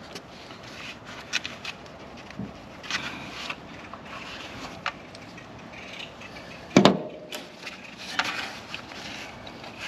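Scattered clicks and clinks of hand tools being handled at the engine during spark-plug removal, with one loud knock just under seven seconds in.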